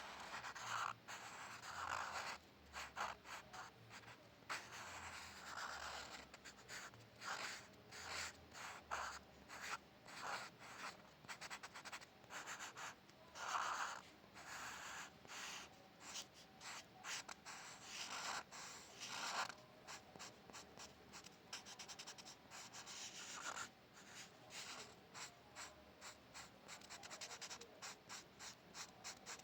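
A drawing tool scratching across paper in many quick strokes, some longer sweeps among them, with short pauses in between.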